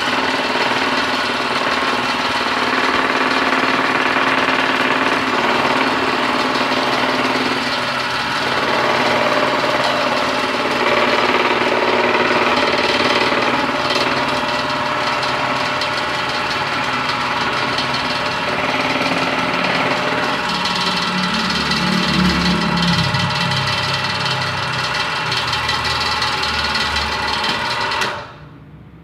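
Homemade jigsaw built from a sewing machine, running with a steady mechanical chatter from its motor and reciprocating mechanism, then shut off suddenly near the end.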